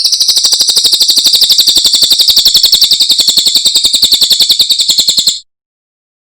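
A cililin songbird singing one long, very fast, high trill of about a dozen even notes a second, which stops suddenly after about five seconds.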